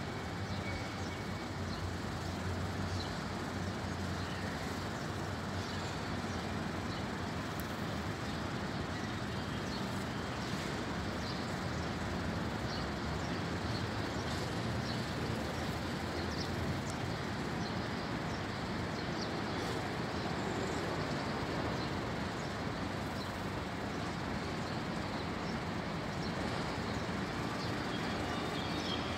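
Steady outdoor background noise, like distant traffic, with scattered short, high bird chirps.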